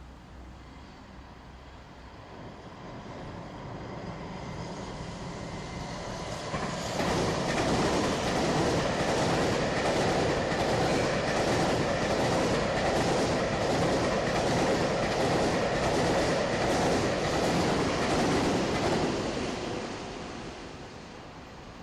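Freight train approaching, passing close with a fast, even clickety-clack of wheels over the rail joints, then moving away.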